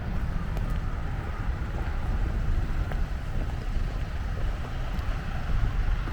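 Wind buffeting the microphone: a low, uneven rumble that runs without a break, over faint outdoor background noise.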